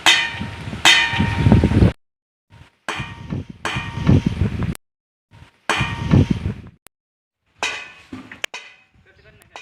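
Metal bell being struck again and again by the home-made automatic bell's rotating wheel, each strike ringing on, with a low rumble from the moving mechanism. The sound comes in several short stretches that stop abruptly.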